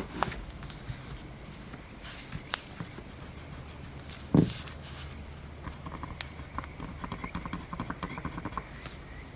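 Crackling fire ambience with desk-study noises: scattered sharp crackles and clicks over a low steady hum, one dull knock about four seconds in, and a quick run of small ticks in the second half.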